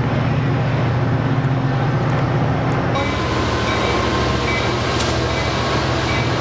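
Metrolink F59PHI diesel-electric locomotive and its train passing close by, the diesel engine running with a steady low drone. About halfway through, thin high steady tones join in over the rumble of the cars.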